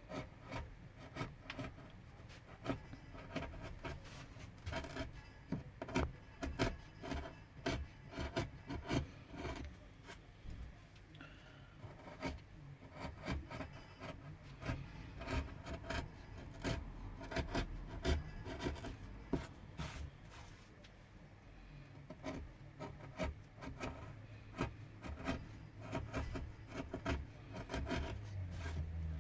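A carving tool cutting into pine wood by hand, in a run of short scraping strokes, irregular and a few a second.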